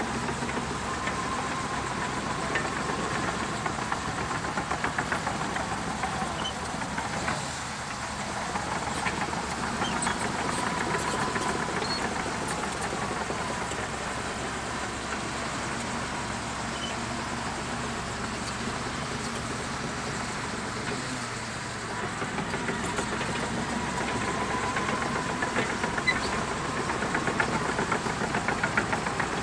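Shantui DH17C2 bulldozer working: its diesel engine runs steadily under load with a clattering rattle, and a whine swells and fades a few times.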